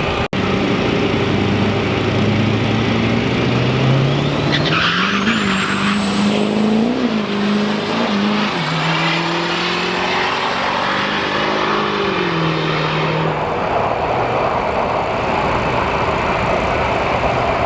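Turbo-diesel drag trucks launching and running down the strip. The engine note climbs with a rising turbo whistle that holds high, and drops twice at gear changes before fading near the end.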